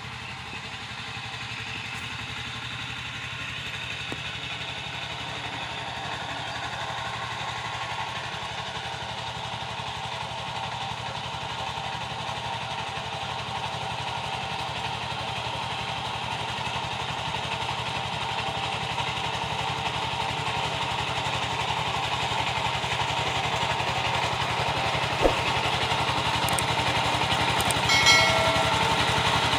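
Power tiller's single-cylinder diesel engine running steadily and growing gradually louder as it comes closer. A sharp click sounds about 25 seconds in, and a short, higher-pitched tone near the end.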